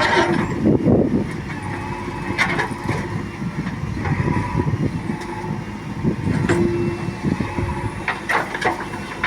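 Diesel engine of heavy earth-moving machinery running steadily, with a few sharp knocks about two and a half seconds in and twice near the end.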